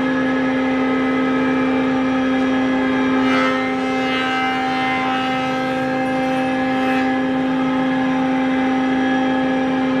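A woodworking machine's motor running at a constant speed, a steady unchanging hum.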